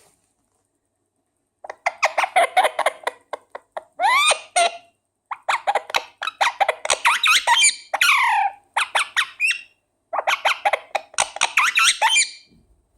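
Indian ringneck parakeet chattering: rapid clicky chatter mixed with squeaks and sharp squawks that sweep up and down in pitch, in three spells with short pauses about five and ten seconds in.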